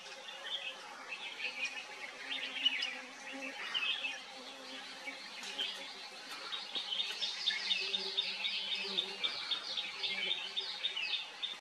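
Birds chirping and calling, with a quick run of rapidly repeated chirps in the second half.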